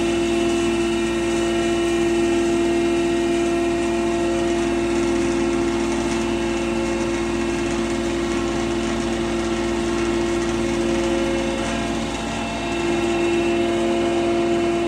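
Animal-feed pulveriser (grinding mill) running steadily with a constant machine hum, dipping briefly in level about twelve seconds in before picking up again.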